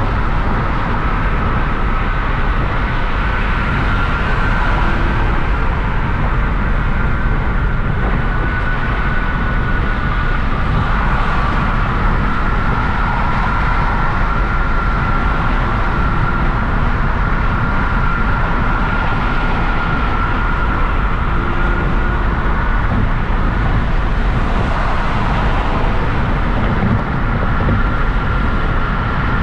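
Hyundai Genesis Coupe with its 3.8-litre V6, driving at a steady pace: constant road, tyre and engine noise with a steady high-pitched whine over it.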